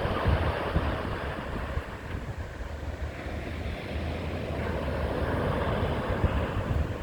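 Sea waves washing onto a beach, a steady rushing surf, with wind buffeting the microphone in low, gusty rumbles.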